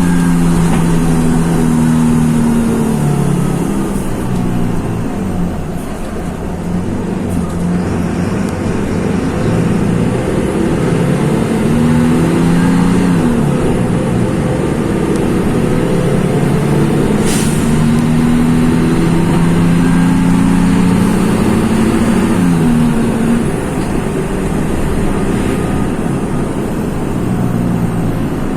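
Mercedes-Benz OF-1724 city bus's OM-926 LA six-cylinder turbodiesel engine pulling under load. Its pitch climbs slowly and drops at each manual gear change, three times. A brief sharp sound comes about 17 seconds in.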